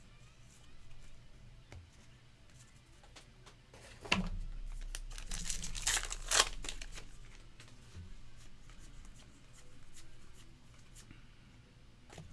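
Crinkling and tearing of a trading-card pack wrapper, loudest for about three seconds starting about four seconds in, with soft rustling and ticks of card handling around it.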